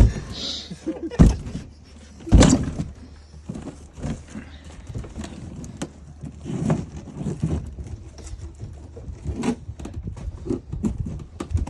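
Irregular clunks, knocks and rattles of hard objects being handled, loudest about one and two and a half seconds in, over a low steady hum.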